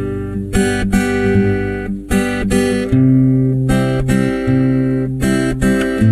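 Acoustic guitar playing a broken-chord pattern in four time: a bass root note on the strong beats, each followed by two quick eighth-note strokes on the upper strings. The chord changes about every three seconds.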